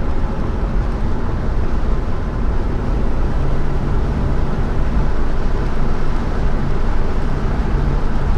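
Holden HK car driving at a steady speed: a continuous low engine drone mixed with road and wind noise.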